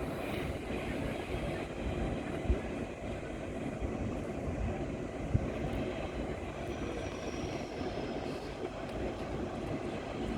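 EP2K electric locomotive bringing a passenger train into a station: a steady low rumble of the train rolling in, with a couple of short knocks.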